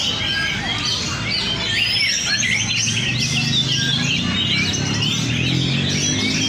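Several oriental magpie-robins (kacer) singing at once, a dense, unbroken tangle of whistles, trills and quick chirps as the birds compete. A low steady hum runs under the birdsong from about two seconds in.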